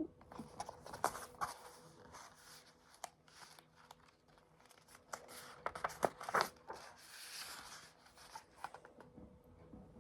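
Paper pages of a picture book being handled and turned: scattered soft rustles and light clicks, with a louder rustle about six seconds in.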